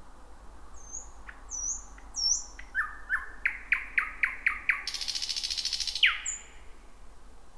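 Thrush nightingale singing: a few thin, high whistled notes, then a run of sharp clicking notes that speed up, then a loud dry rattle lasting about a second, ending in a falling note.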